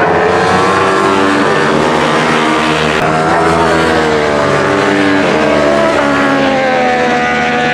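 Several superbike racing motorcycles running hard together, their overlapping engine notes falling and rising in pitch through braking and gear changes.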